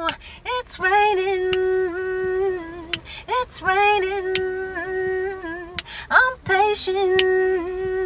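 A woman's singing voice, unaccompanied, holding long sustained notes with no clear words. Near the end a second, lower voice line sings a harmony under the main note.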